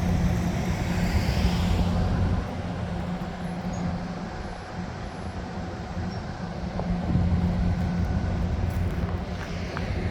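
Steady low engine hum of a vehicle with a rushing noise over it, dipping a little in the middle and picking up again about seven seconds in.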